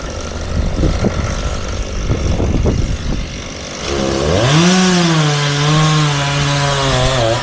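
Low rumbling noise, then about four seconds in a Stihl MS 391 two-stroke chainsaw revs up sharply and runs on at a steady high pitch that sags slightly.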